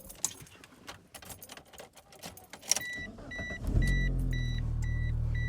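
Keys jangling and clicking in the ignition of a 1999 Mitsubishi Eclipse, then the car's warning chime beeping about twice a second. A little over halfway through, the engine starts and settles into a steady idle under the continuing chime.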